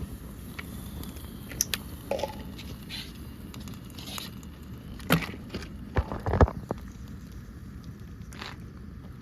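Scattered clicks, knocks and crunches of objects being handled, with the loudest knocks clustered about five to six and a half seconds in, over a steady low background noise.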